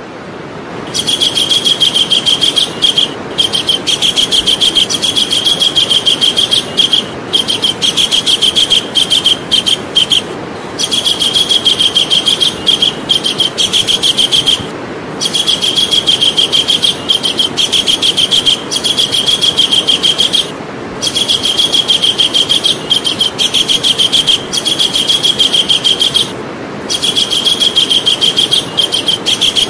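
Javan kingfisher calling: a loud, rapid, high chattering trill in bursts of a few seconds, broken by short pauses about every three to six seconds, over a steady low hiss.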